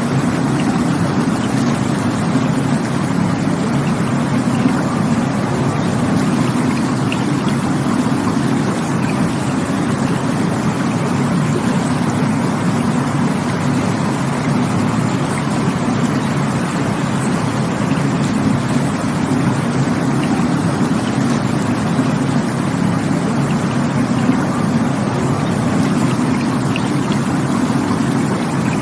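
Rushing water from a stream or waterfall: a steady, unbroken rush with a deep rumble beneath.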